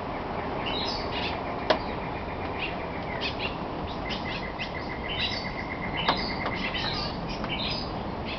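Several rainforest birds calling: scattered high chirps and two long, rapid trills of evenly repeated notes, over a steady background hiss. Two sharp clicks, just under two seconds in and about six seconds in, are the loudest sounds.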